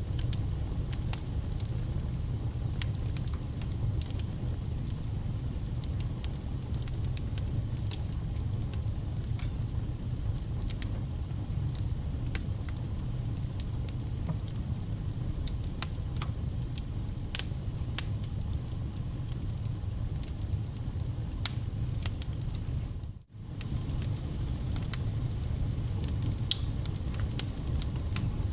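Wood fire burning, with irregular sharp crackles and pops over a steady low rumble of the flames. The sound cuts out for a split second about 23 seconds in, then resumes.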